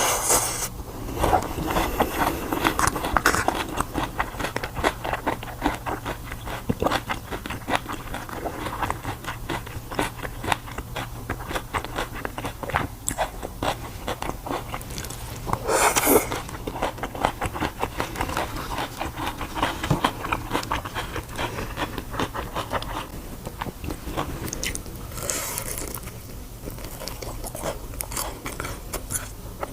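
A person biting and chewing crisp food close to the microphone: a dense run of small crunches and crackles, with one louder bite about halfway through.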